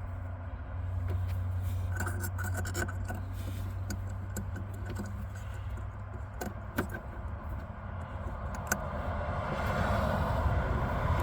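Hands working small metal parts of a riding-mower engagement cable, tension spring and washer: scattered light metallic clicks, clinks and scrapes, over a steady low rumble.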